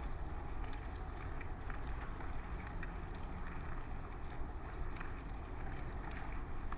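Steady rain, with scattered sharper taps of single drops.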